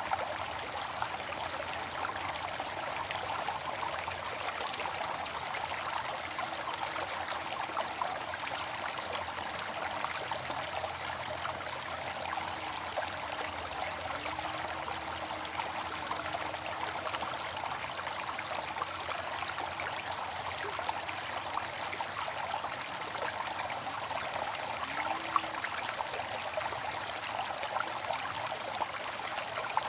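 Water fountain splashing and trickling steadily, an even rush of falling water.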